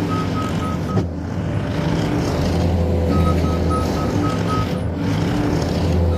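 New Holland C232 compact track loader running under load while its backup alarm gives rapid, even beeps as it reverses. The beeping stops about a second in and starts again around three seconds in, then stops again near five seconds.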